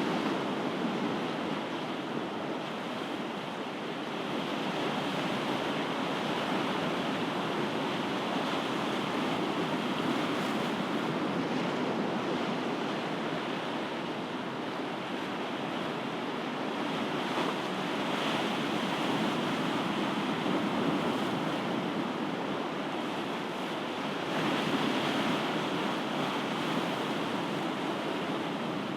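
Ocean surf washing ashore in a continuous rushing hiss, swelling and easing every few seconds, loudest about twenty-five seconds in.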